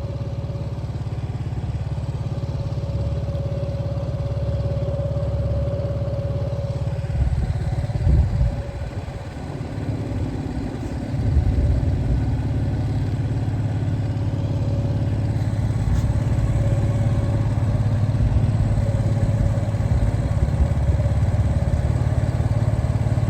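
A 7 horsepower four-stroke outboard motor running steadily under way, pushing the boat upriver with a constant drone. Its level dips about eight seconds in, then picks up again about eleven seconds in.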